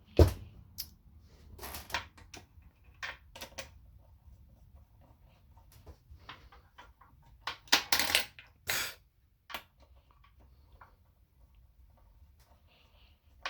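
Small metal parts clicking and clinking against each other: valve body bolts being handled and set into a transmission valve body, with a quick flurry of clinks about halfway through.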